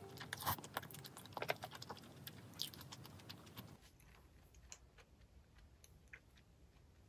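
Close-miked chewing of spicy chicken feet: many small clicks and smacks, busiest in the first three or four seconds, then fainter and sparser.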